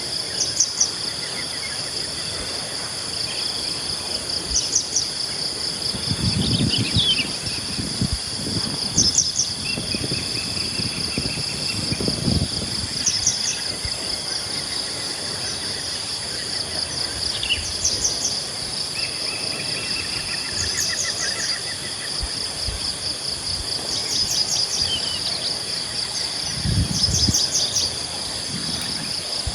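Early-morning rural ambience: a steady high-pitched insect drone, with birds calling in short quick trills every few seconds and a few low rumbles at intervals.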